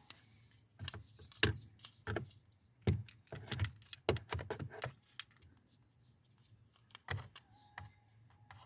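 A quick run of hard clicks and clacks over a few seconds, like hard objects being handled and set down, then two more single clicks near the end.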